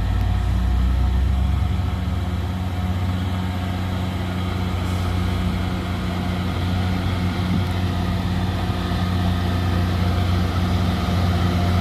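A heavy truck's diesel engine running steadily, a loud, even, low-pitched drone. A deeper rumble fades out about a second and a half in.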